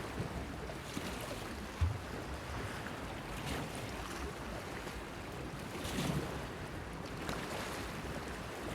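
Small waves lapping and splashing against a breakwater pier, with a light wind; the wash swells softly now and then. A short low thump comes just under two seconds in.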